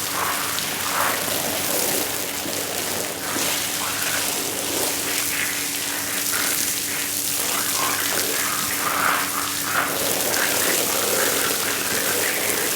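Water spraying and splashing steadily onto a soaked shag rug as it is rinsed.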